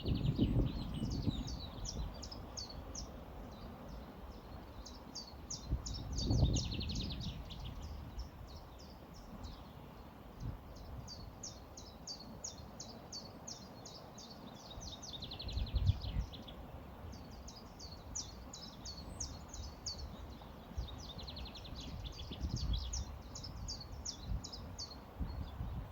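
A songbird singing the same song over and over, each phrase a quick series of high notes running into a lower trill, repeated about every four seconds. A few low rumbles come and go underneath.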